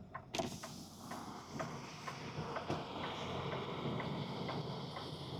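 A truck's turn-signal flasher clicking at an even pace, about two clicks a second, over the low hum of the cab.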